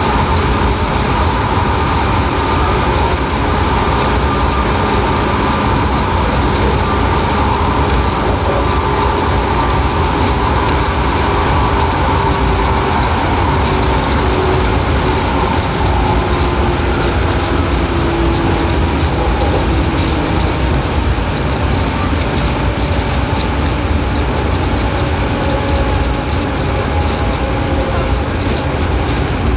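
Seibu 4000 series electric train running at speed, heard from inside the car: a steady, loud rumble of wheels and running gear with a faint whine from the motors and gears. The car is passing through a tunnel.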